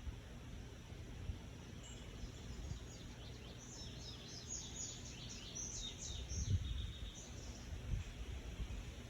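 A bird calls in a quick series of high, falling chirps for a few seconds in the middle, over steady background noise with a few low thumps.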